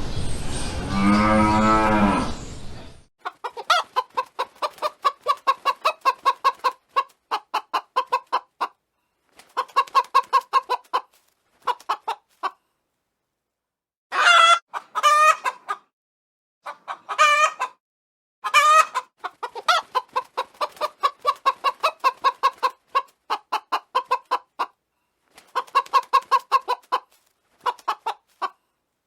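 A cow's moo trails off about three seconds in. Then chickens cluck in quick runs of pulses broken by short pauses, with a few louder, longer calls mixed in.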